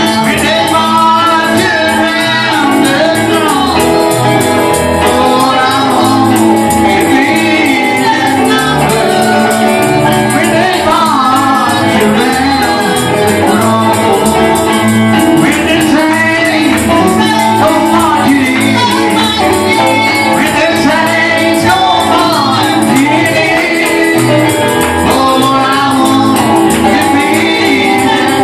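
Live gospel worship music in church: singing over a band, with a steady bass line and a tambourine.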